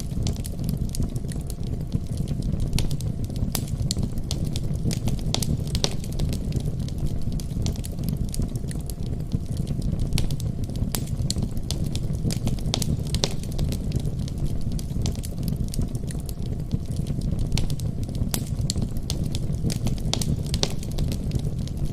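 Wood fire burning in a fireplace, with a steady low rumble of flame and frequent sharp, irregular crackles and pops.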